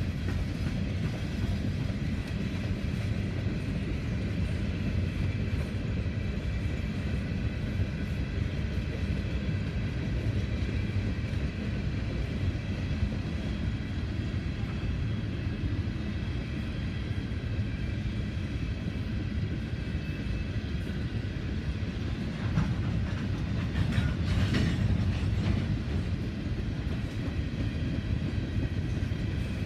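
Empty Norfolk Southern coal hopper cars rolling past on the rails: a steady rumble and clatter of steel wheels, with faint high whining tones over it. It grows louder and harsher for a couple of seconds about three-quarters of the way through.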